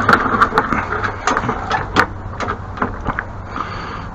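A rapid, irregular series of sharp knocks and clicks, like hard objects being handled and set down, thinning out toward the end.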